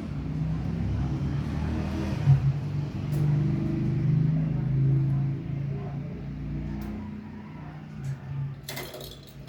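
Engine running with a low, steady hum that swells a few seconds in, and a short burst of clicking near the end.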